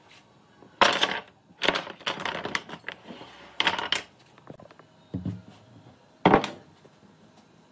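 Irregular knocks and clatters of wood and hand tools being handled and set down, in about five separate bursts with short pauses between.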